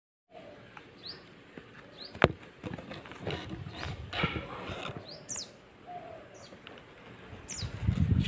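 Outdoor background with small birds giving short, high chirps that fall in pitch, repeated many times. A single sharp click about two seconds in, and a low rumble near the end.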